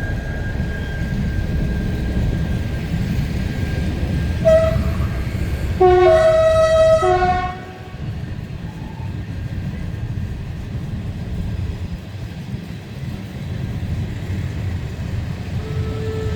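A heritage train running with a steady low rumble and sounding its warning signal: a brief toot about four and a half seconds in, then a louder blast of several tones at once lasting about a second and a half, its pitch shifting midway. Another tone starts near the end.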